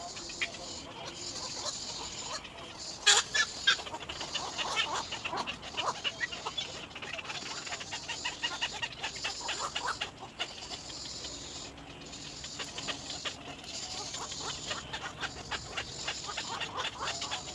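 Little egret chick calling in a rapid clicking chatter, several clicks a second, starting about three seconds in with one sharp loud call. A steady high hiss runs behind it.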